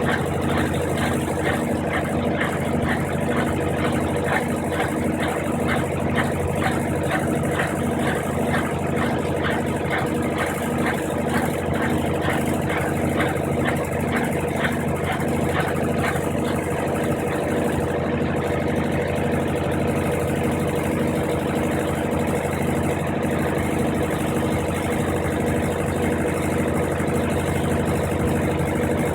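Brastemp 15 kg top-loading washing machine in its spin cycle: a steady motor and drum hum with a regular pulsing beat.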